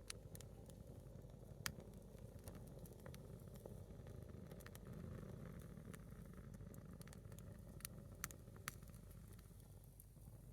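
A single log of firewood burning, giving off scattered sharp crackles and pops, a few of them louder, over a faint steady low background noise.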